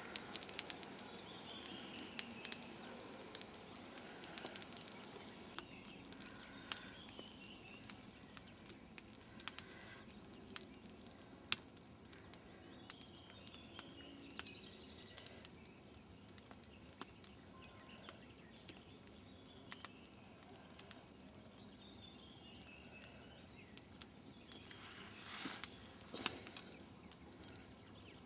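Faint crackling and popping of a wood bonfire, sharp scattered pops throughout, with birds singing short descending trills every few seconds.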